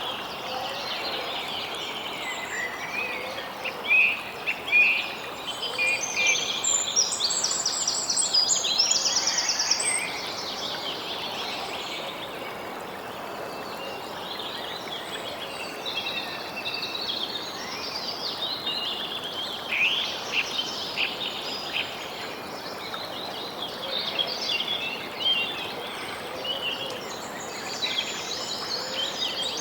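Several birds chirping and singing at once, a busy mix of short chirps and trills, over a steady background hiss of outdoor ambience.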